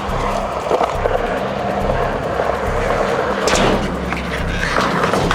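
Skateboard wheels rolling on a ramp, with sharp clacks of the board about three and a half seconds in and again near the end, over background music.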